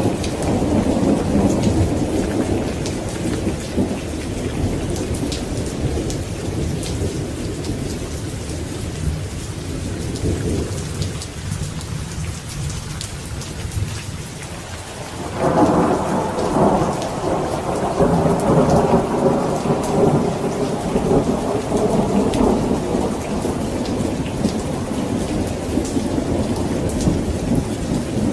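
Thunderstorm: steady rain with rolling thunder. The rumble fades over the middle of the stretch, and a new peal breaks in about halfway through and rumbles on to the end.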